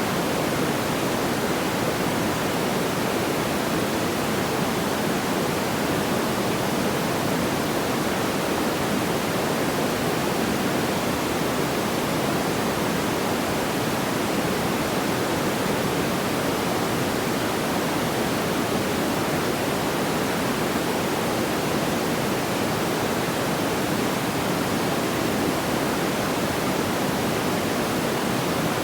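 Steady, even rushing noise like pink noise, unchanging throughout, with no distinct crackles or pops.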